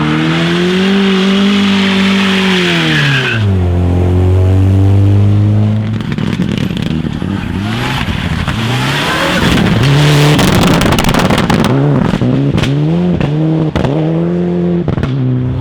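Rally car engine driven hard through a stage. It holds high revs with a hiss of tyre and road noise, drops sharply about three and a half seconds in, then revs up and down again and again through gear changes, with a string of sharp cracks in the second half.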